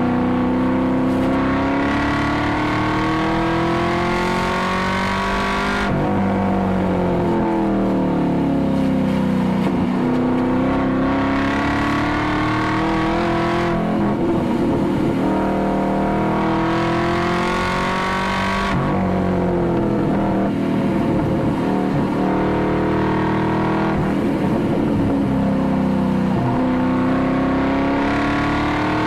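2019 Camaro SS 1LE's 6.2-litre V8 heard from inside the cabin, driven hard on track. Its pitch climbs under acceleration, drops abruptly a few times, and falls away slowly where the car slows for corners.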